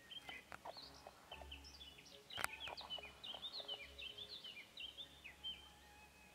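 Small birds twittering: a dense run of short, quick chirps, with one sharp click about two and a half seconds in.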